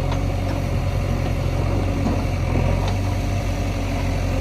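Heavy diesel engine of a loader or tractor running steadily at low revs.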